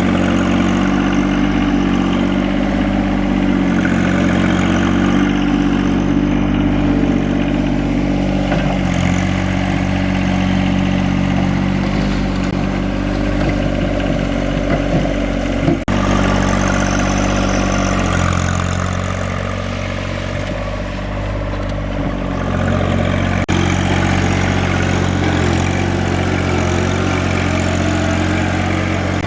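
Tractor engine running steadily at idle. Its pitch and level shift abruptly about halfway through and again later.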